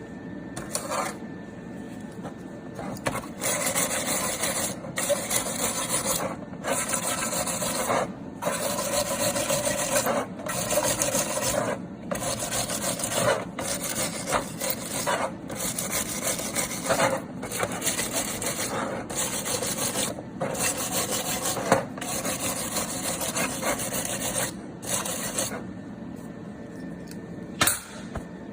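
Brush pen scrubbing a cold-weld spot on brass welded to stainless steel, in quick bouts broken by short pauses every second or two, brushing the oxide off the weld. A sharp click near the end.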